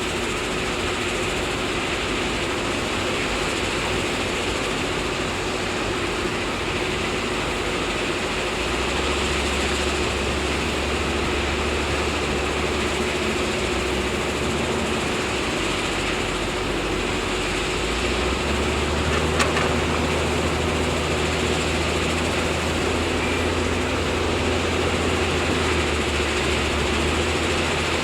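Heavy diesel construction machinery running steadily with a constant whine over the engine noise. A deeper engine note swells in about a third of the way through and again about two-thirds through, as if the engine is taking load. There is one sharp click a little after that.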